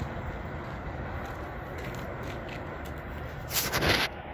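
Metra commuter train running away down the track, a low steady rumble fading into the distance, with a few faint clicks. Near the end a brief loud rushing hiss cuts in for about half a second.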